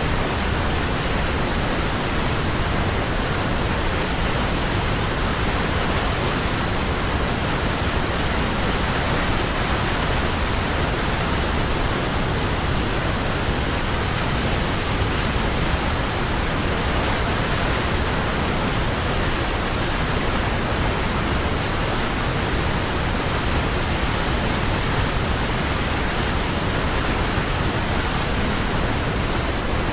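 Waterfall: water falling and splashing in a steady, dense rush with no changes.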